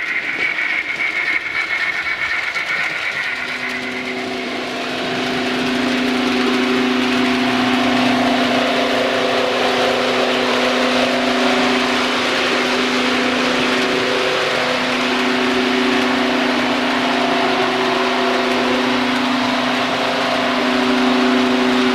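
Model railway train running on the layout, giving a steady engine-like hum that starts a few seconds in and holds, with a brief dip partway through. A fading high tone is heard at the start.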